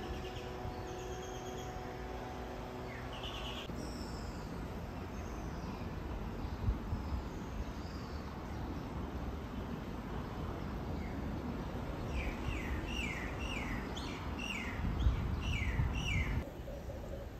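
Outdoor platform ambience: a steady low background rumble with small birds chirping. A quick run of short, falling chirps comes about two-thirds of the way in.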